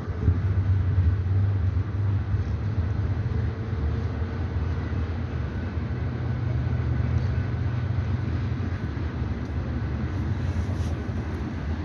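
Train passing, a steady low rumble that eases off slightly toward the end.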